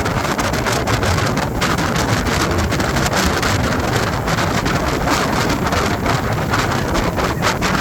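Speedboat running at speed: a steady rush of engine, hull and water noise, with heavy wind buffeting on the microphone.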